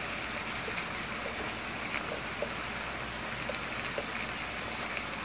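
Ground beef and sofrito sizzling steadily in a frying pan on high heat, with scattered small crackles.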